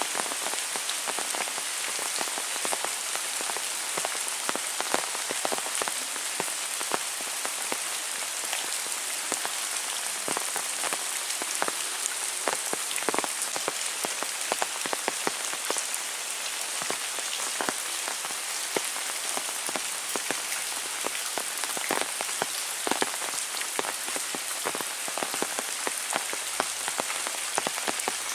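Heavy rain falling steadily, an even hiss thick with the close patter and clicks of individual drops landing on surfaces.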